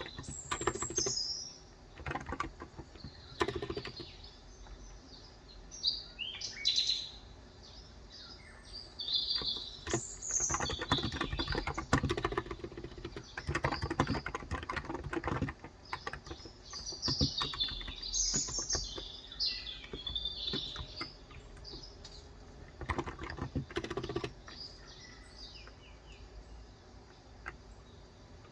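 Typing on a Cox Endeavour electro-capacitive (Topre-style) tenkeyless keyboard with 35 g switches, in intermittent runs of keystrokes, while small birds chirp throughout.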